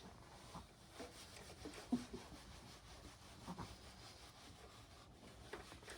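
Soft, faint rubbing and rustling of a towel worked over a small dog's damp long coat, with a few light knocks scattered through.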